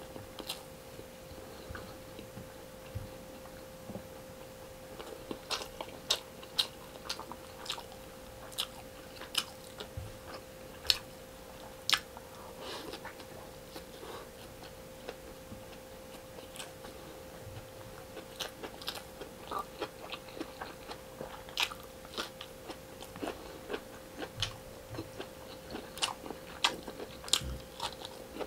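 Close-miked chewing and biting of a person eating rice and fried fish by hand: irregular crunches and wet mouth clicks. A faint steady hum runs underneath.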